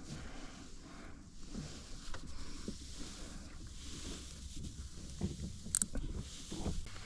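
Water lapping and sloshing against a kayak hull, with scattered small knocks and clicks of gear being handled, and one sharp click a little before the end.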